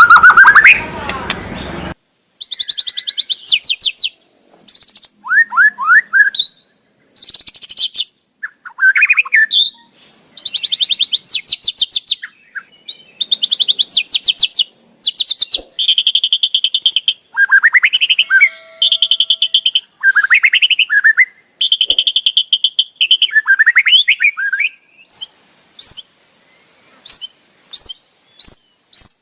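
White-rumped shama giving its 'kretekan': repeated bursts of very fast rattling chatter, each about a second long, mixed with short whistled notes. This is the harsh call used to provoke rival birds. It opens with a brief loud noisy rush that lasts about two seconds.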